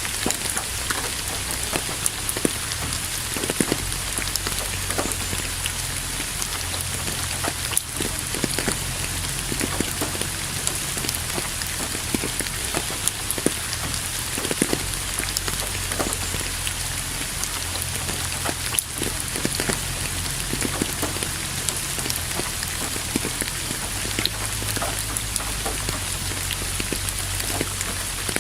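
Steady rain falling, with many separate drops striking close by, over a steady low rumble.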